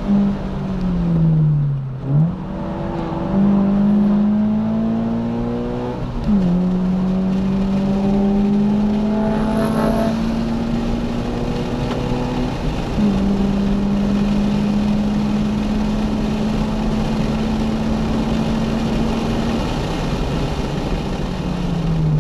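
Subaru BRZ's 2.0-litre flat-four with a Borla cat-back exhaust, heard from inside the cabin, being driven hard on track. The revs fall briefly at first, then climb under full throttle, with upshifts about 6 and 12 seconds in. Near the end the driver lifts and the revs fall.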